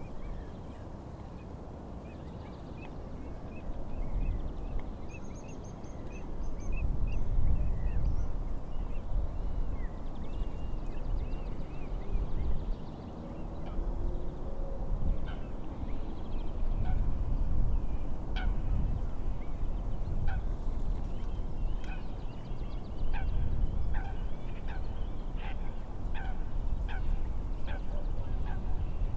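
Wind gusting and lake waves making a rising and falling low rumble, with birds calling over it: a quick run of short chirps in the first half, then short calls repeated about once a second.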